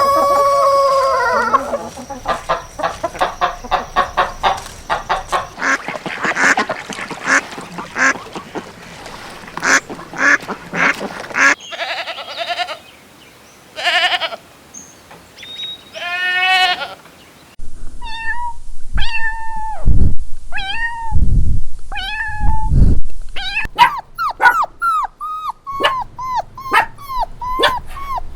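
Farm animal calls one after another, mainly ducks quacking in quick runs. The tail of a rooster's crow fades out at the start, and in the second half shorter calls repeat at a steady pace, some with deep thumps beneath them.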